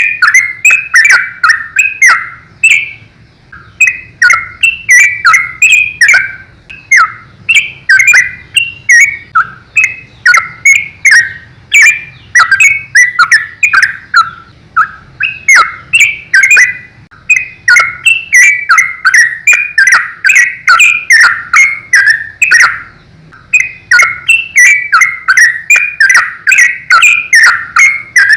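Yellow-vented bulbul (trucukan) singing a rapid, continuous song: quick strings of short chirping notes in phrases lasting a few seconds, with brief pauses between phrases.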